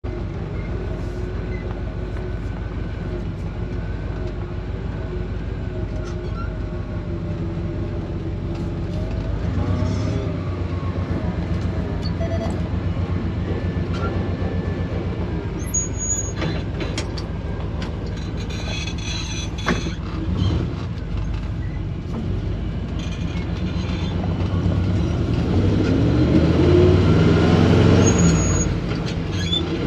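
A vehicle engine running steadily, with scattered clicks and knocks; near the end it grows louder and rises in pitch as if picking up speed.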